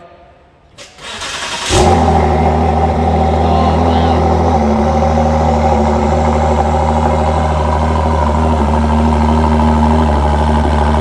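Ford GT's twin-turbo V6 starting: a brief crank about a second in, then it catches with a sudden jump in loudness and settles into a steady, even idle.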